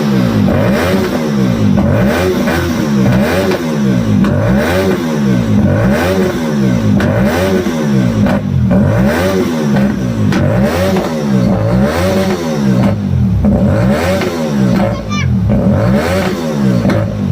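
Hyosung GT250R's 250 cc V-twin breathing through an aftermarket Yoshimura exhaust, the throttle blipped again and again so the revs rise and fall roughly once a second.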